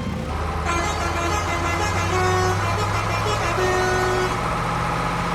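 A vehicle engine running steadily, with a horn sounding over it from about a second in in a run of held tones at several different pitches.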